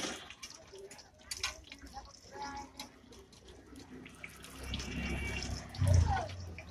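A man chewing a chicken roll close to the microphone: wet, clicking mouth sounds, with a louder burst about six seconds in as he puts his fingers in his mouth.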